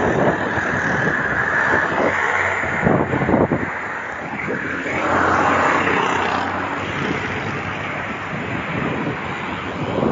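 Steady rush of road noise from riding along a road, vehicle drone mixed with wind on the microphone, swelling a little around the middle.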